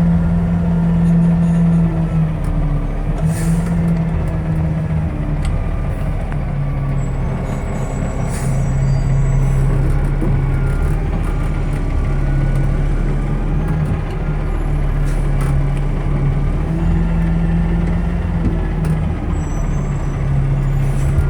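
Diesel engine of a 2018 Peterbilt front-loader garbage truck running. Its pitch steps up and down several times, with a few short knocks and clatters over it.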